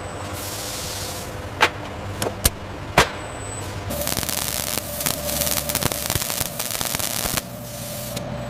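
Factory machinery: a steady hum with a few sharp knocks, then about three and a half seconds of loud hissing crackle.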